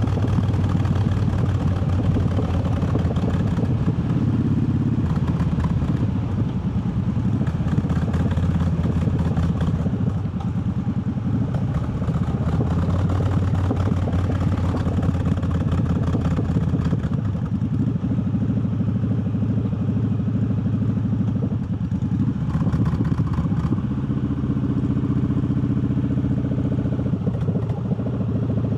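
Triumph Bobber's parallel-twin engine running on the road, heard from the rider's seat. The engine note stays fairly steady and settles into an even pitch near the end.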